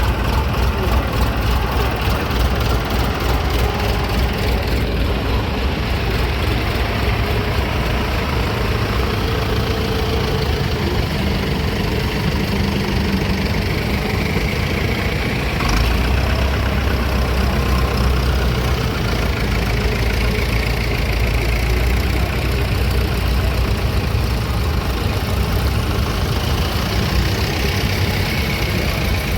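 Old engine running steadily at a low, even pace, with the low rumble growing heavier about halfway through.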